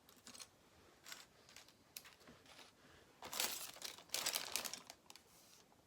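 Plastic bags of Lego pieces crinkling as they are rummaged through, with two louder bursts of rustling about three and four seconds in.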